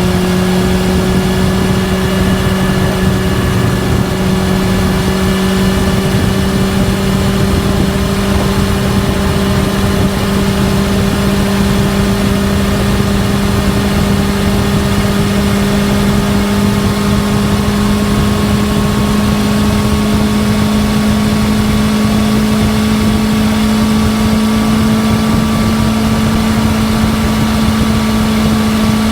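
Honda CB400SF Hyper VTEC's inline-four engine running through a Yoshimura titanium full exhaust system at steady cruising revs, its note rising very gradually as the bike picks up speed, over a constant rush of wind.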